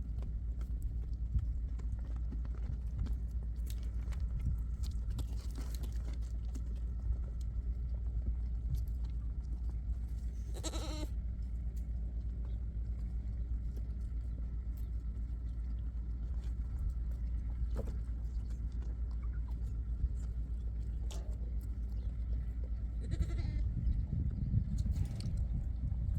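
A single wavering bleat from the herd's sheep and goats, loud and about a second long halfway through, with fainter bleats near the end. A steady low rumble sits underneath.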